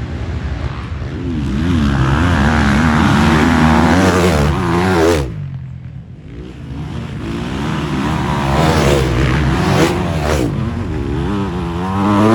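Motocross dirt bike engines racing, revving up and down as the throttle is worked through the track. The sound cuts off suddenly about five seconds in, then builds again.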